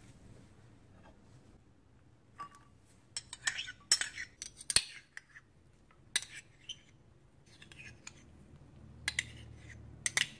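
A metal spoon clinking and scraping against small ceramic bowls while ingredients are spooned out, in scattered light clicks and scrapes starting a couple of seconds in.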